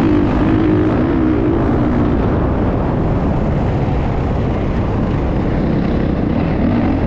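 Motocross bike engine running, its pitch wavering up and down for about the first two seconds, then blurring into a steady rough noise with a low rumble.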